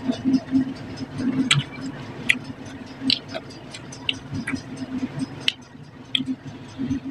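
Close-up eating sounds of a person eating rice and fish curry by hand: wet chewing and lip smacking, with irregular sharp clicks a few times a second.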